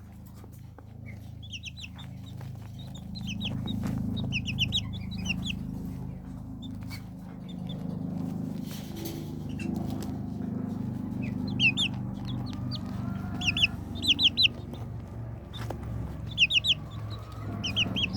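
Young Serama and Silkie chicks peeping in quick runs of short, high-pitched peeps, several times over, above a steady low drone.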